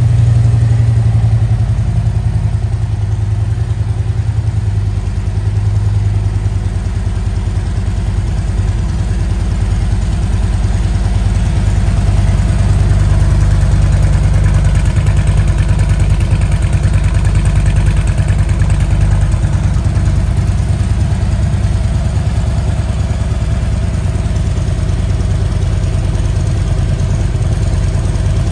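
Harley-Davidson CVO Road Glide's Milwaukee-Eight 117 V-twin idling steadily through a Rinehart full exhaust, with a deep, even pulse.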